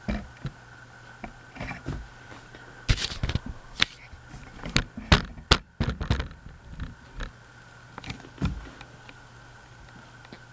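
Irregular sharp clicks and knocks, like objects being handled, clustered in the middle with a last one near the end, over a steady low hum.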